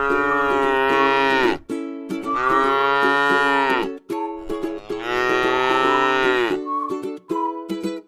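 A cow mooing: three long moos of about two seconds each, the pitch dropping as each one ends.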